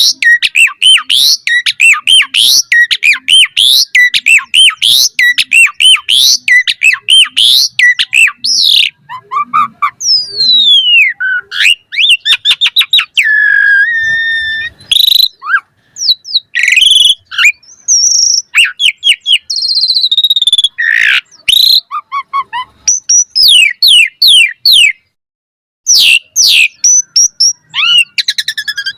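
Asian pied starling (jalak suren) singing a long, varied song. For about the first nine seconds it repeats quick rising whistles in a fast run. After that come mixed whistles, sweeping glides and a held whistle, with a brief pause near the end.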